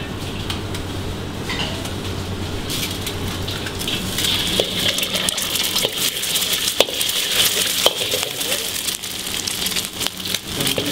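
An egg frying in hot oil in a wok, sizzling and crackling from about three seconds in, with a metal ladle knocking and scraping against the wok. A steady low hum sits under the first few seconds.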